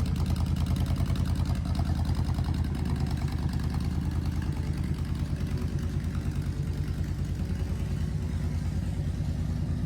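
Motorcycle engine idling with a steady, fast, even pulsing.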